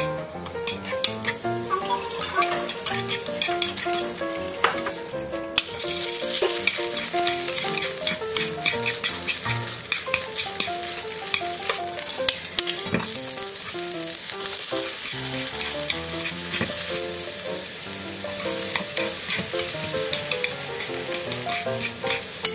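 Sliced mushrooms and vegetables sizzling as they are stir-fried in a frying pan, the sizzle much louder from about six seconds in, with a brief dip near the middle, over light background music with a melody of short notes.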